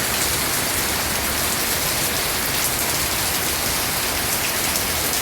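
Steady rain falling on leaves and ground, an even hiss with faint scattered drop patter.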